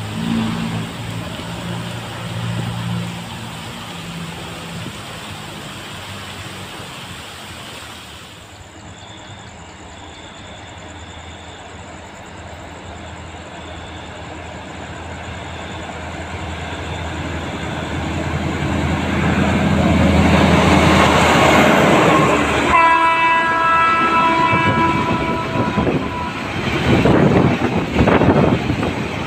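Diesel-hauled container freight train approaching, its rumble growing louder, then its horn sounding for about three seconds; the wagons then roll past with wheels clacking over the rail joints.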